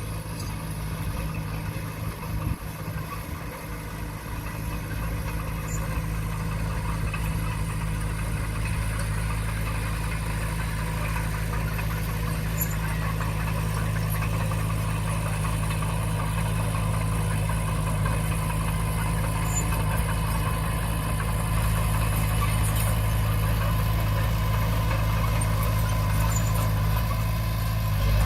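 Diesel engine of heavy earthmoving machinery running steadily with a deep, even drone, growing gradually louder over the first twenty seconds or so.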